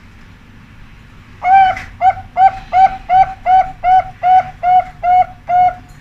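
Zebra dove (perkutut) singing: a first note about one and a half seconds in, then a fast, even series of about ten short coos, roughly two and a half a second.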